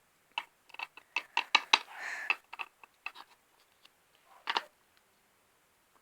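Light clicks and taps of small plastic toys being handled: a quick run of about a dozen ticks in the first three seconds, then one louder tap about four and a half seconds in.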